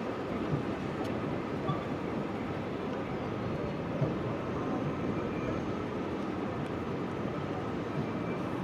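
Steady low rumble of city street background noise, a distant hum of engines, with no siren sounding and a few faint clicks.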